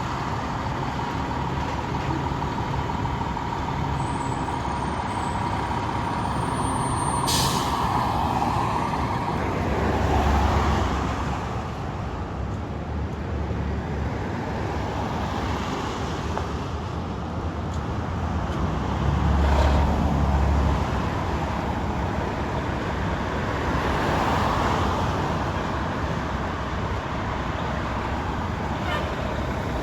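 Fire trucks' diesel engines running steadily, with two low swells in engine rumble and a short burst of air-brake hiss about seven seconds in.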